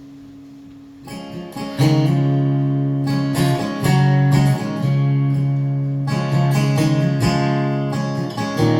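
Acoustic guitar strummed in a song's intro, with chords coming in softly about a second in and growing louder by about two seconds.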